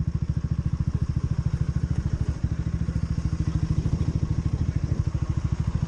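Motorcycle engine running steadily with a fast, even pulsing beat, neither revving up nor dying down.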